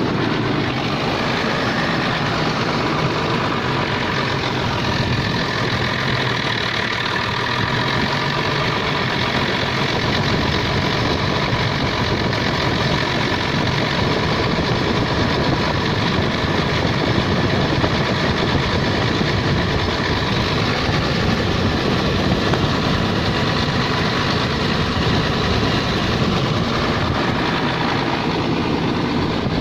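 Diesel engine of a Hyundai R210 excavator running steadily, fitted with a newly installed fuel injection pump.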